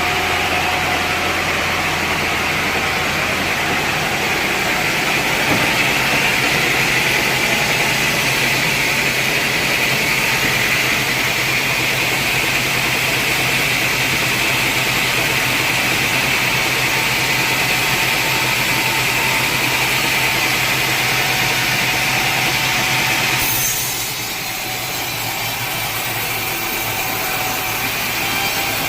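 Sawmill saw cutting through a large teak log, a steady high-pitched cutting sound over the hum of the saw's motor. About three-quarters of the way through, the cutting sound drops away and the saw runs on more quietly.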